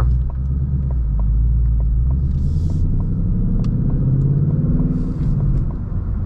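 2021 Ford Mustang Mach 1's 5.0-litre V8 accelerating through its active exhaust set to track mode, heard from the cabin with the window down: a deep rumble whose pitch climbs steadily for about three seconds, then falls away near the end as the throttle eases.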